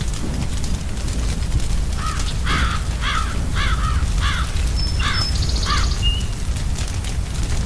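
A crow cawing six or seven times in quick succession, over the steady low rumble of a crackling fire.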